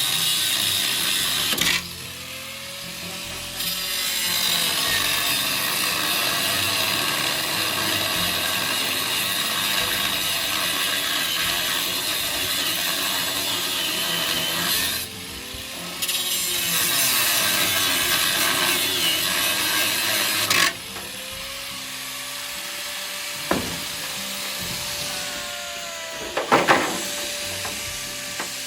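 A handheld power tool working metal runs in long stretches. It pauses twice, then stops about two-thirds of the way through, and a few sharp knocks follow near the end.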